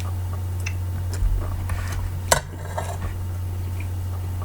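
Cutlery clinking against a breakfast plate in a few sharp clicks, the loudest about two seconds in, over a steady low hum.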